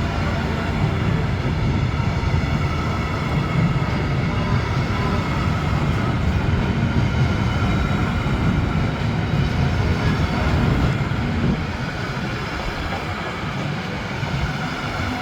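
A train passing at close range: a steady, loud rumble of wheels on rails with a faint high ringing hum above it, easing off somewhat about eleven seconds in.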